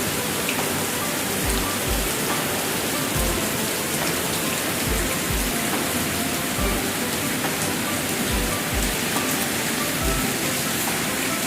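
Steady rain falling on a surface, a continuous hiss, with background music underneath carrying a deep, recurring beat.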